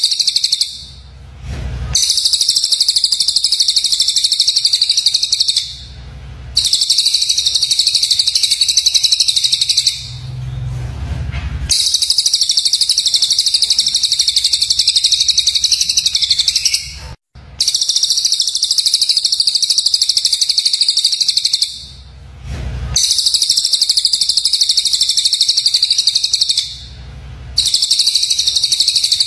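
Songbird song played as a bird-training track: rapid, harsh, high-pitched chattering in long bouts of about four to six seconds, each broken off by a short pause about five times.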